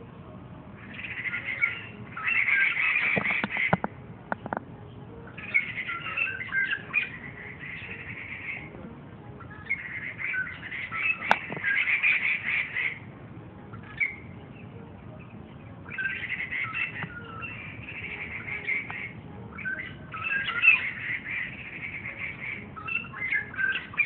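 A songbird singing in the tree canopy: repeated bursts of chattering song, each one to three seconds long, with short pauses between. A few sharp clicks come through about three to four seconds in and once near the middle.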